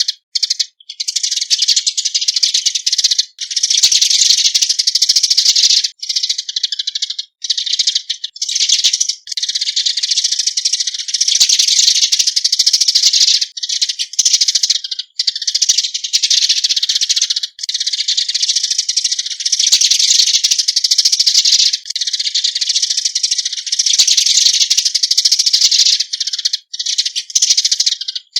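Eurasian tree sparrows giving their flock-gathering call: a dense, fast, high chirping chatter, broken by brief pauses every few seconds.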